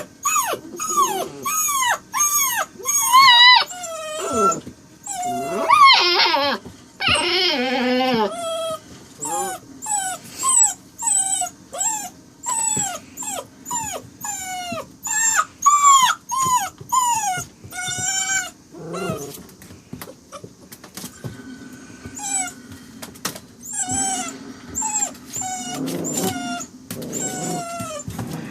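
Saint Dane puppy making strange vocal sounds: a long string of short, high-pitched whines and whimpers, about two a second, with a couple of rougher, raspy cries around six to eight seconds in.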